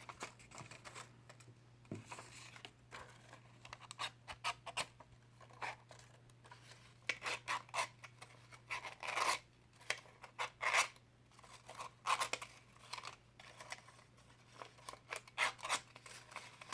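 Scissors working paper: a scissor blade scraped along paper strips to curl a paper bird's wings, a series of short scratchy strokes in irregular clusters.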